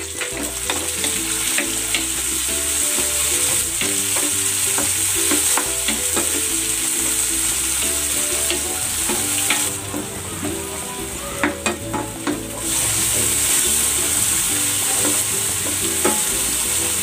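Tomatoes, onions, garlic and ginger sizzling in hot oil in a nonstick wok, stirred with a wooden spatula that scrapes and taps the pan. The hiss eases for a couple of seconds partway through, and background music plays underneath.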